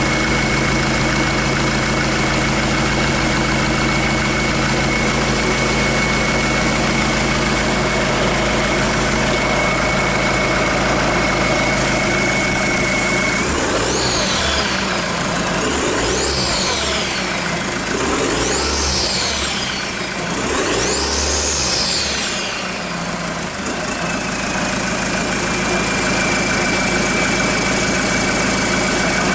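Hyundai D4CB 2.5-litre four-cylinder common-rail diesel idling steadily with a high steady whine. About halfway through it is revved up and let fall back four times, and the whine drops out while it revs, then it settles back to idle.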